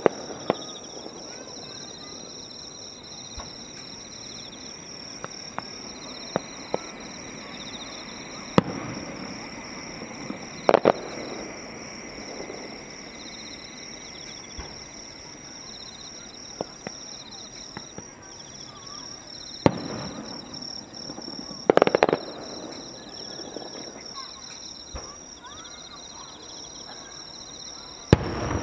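Fireworks shells bursting: sharp bangs several seconds apart, some in quick doubles or clusters, with smaller pops between. Insects chirp steadily underneath.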